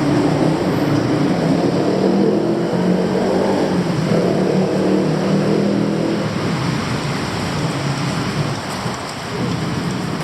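Loud, steady rumble of street traffic, with a heavy engine running close by; it eases slightly near the end.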